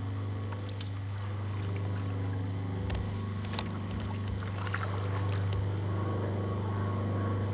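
Steady low motor hum that grows slightly louder, with small water splashes and drips about three to five seconds in.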